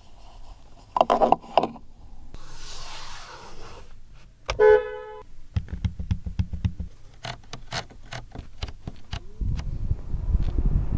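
A loud knock about a second in, then a short car horn toot near the middle. After the toot the low rumble of a Lotus's Mercedes-AMG 2.0-litre turbocharged four-cylinder engine pulses, and it swells louder near the end.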